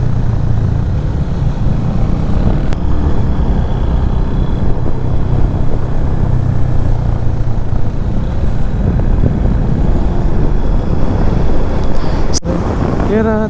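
Motorcycle on the move, with a steady low rumble of engine and wind noise on the rider's microphone. A sharp click comes near the end.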